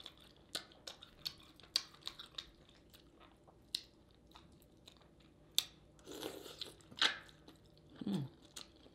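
Close-up mouth sounds of a person eating seafood in sauce: chewing with wet smacking and sharp lip clicks at irregular intervals, busiest about six to seven seconds in.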